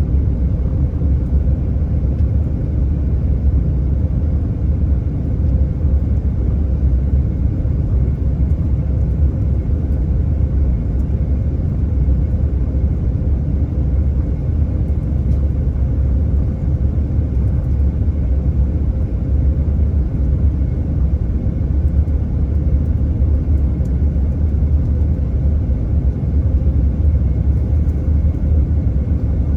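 Airliner cabin noise heard from inside the passenger cabin: a steady, even low rumble of the engines and airflow, with faint steady tones above it.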